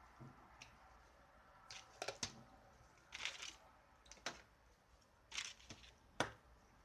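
Handling noise: a few sharp clicks and three short scraping rustles, scattered over several seconds.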